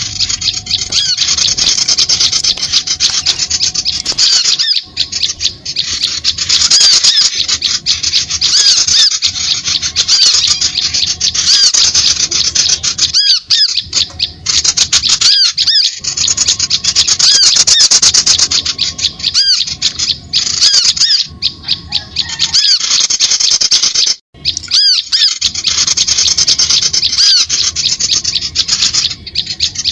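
A dense, continuous chorus of high, rapid bird chirps and chatter, with a few brief breaks. It is a bird-lure recording made to draw wild birds in.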